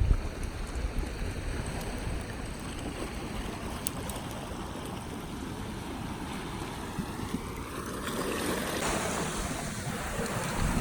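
Sea waves washing on the shore, with wind rumbling on the microphone and a brief thump at the very start.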